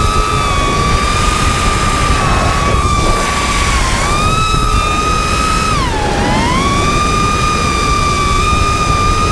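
FPV quadcopter's brushless motors whining, the pitch sagging slightly about four seconds in and dipping deeper around six seconds in as the throttle eases off, then climbing back. A heavy low rumble of wind buffets the onboard camera's microphone throughout.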